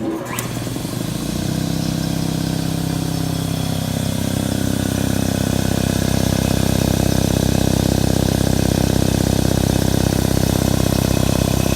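Ingersoll Rand 5 HP electric air compressor switching on with a click, coming up to speed over about a second, then running steadily with a fast low pumping pulse.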